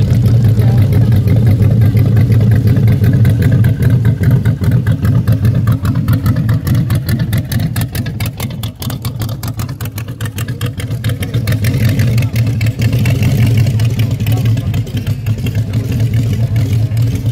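Hot rod engine running through short open exhaust headers as the car drives slowly past at low revs, a steady low rumble of rapid exhaust pulses.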